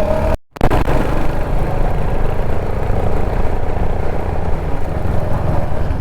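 Kawasaki Z900's inline-four engine running at a steady cruise, mixed with a steady rush of wind and road noise. The sound cuts out completely for a moment about half a second in.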